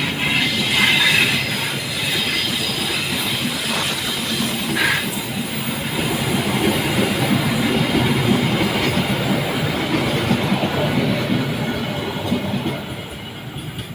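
Train running past on the rails: a steady rush and clatter of wheels and carriages, with a short high squeal about five seconds in. It eases off a little near the end.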